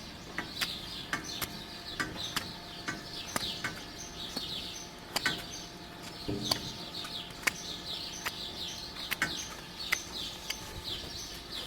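Small birds chirping over and over in short falling calls, with irregular sharp clicks and knocks about twice a second.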